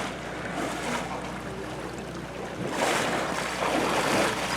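Tour boat under way: a steady motor hum under the rush of water and wind, the splashing rush swelling louder about three seconds in.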